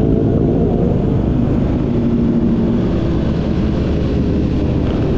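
A vehicle running steadily, with an even low-pitched drone.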